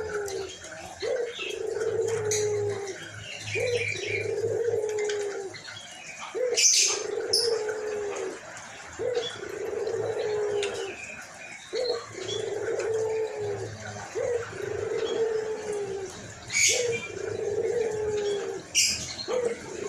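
White puter dove (Barbary dove) cooing over and over, in a hoarse voice: a low coo about every one and a half to two seconds, each dipping slightly at its end. Short, high chirps from other small birds cut in now and then, loudest about seven seconds in and twice near the end.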